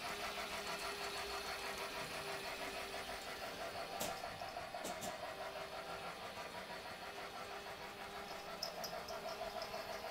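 Toy train running on its track around the tree: a steady small-motor whir with a fast, even clatter of wheels, and a few sharp clicks about four and five seconds in.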